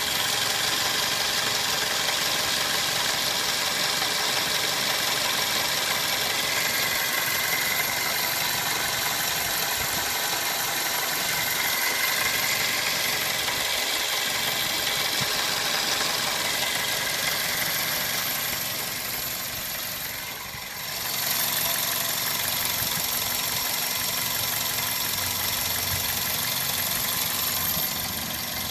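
Vehicle engine idling steadily, with a brief drop in level about twenty seconds in before it settles back.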